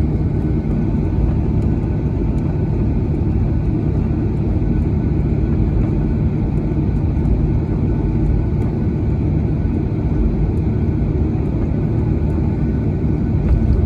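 Steady low cabin noise of a Boeing 737-800 airliner: its CFM56 jet engines and rushing air heard from inside the passenger cabin, with a faint steady high hum over it.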